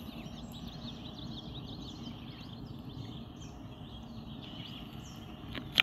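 Outdoor ambience: small birds chirping in the background over a steady low noise, with a brief click near the end.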